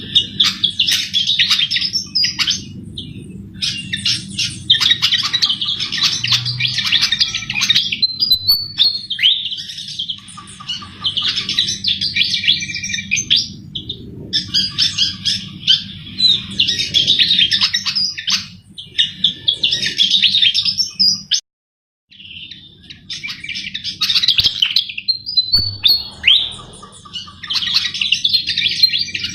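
A sikatan jawa (Javan flycatcher) singing vigorously in its full 'gacor' song: rapid, high-pitched warbling phrases of one to three seconds, repeated with short pauses, over a faint low hum. The sound cuts out completely for about half a second around two-thirds of the way through.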